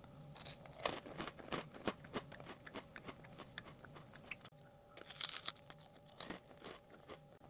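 Close-miked crunchy chewing of a bite of tangerine oranda, a crisp puffed-grain sweet with peanuts, as many small sharp crunches, with a louder burst of crunching about five seconds in.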